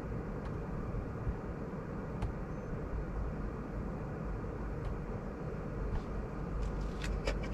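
Steady low rumble and hiss of a car interior, with a few light clicks near the end.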